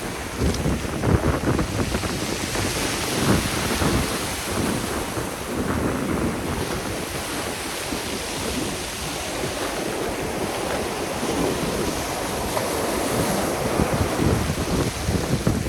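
Sea surf washing on the shore, with wind buffeting the microphone in irregular low gusts.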